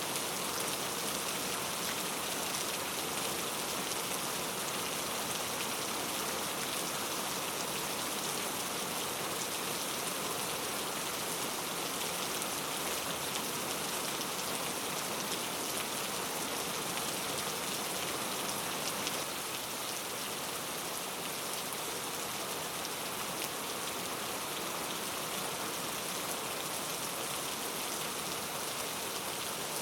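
Steady rain falling on forest foliage, an even hiss with faint patter of drops, easing slightly about two-thirds of the way in.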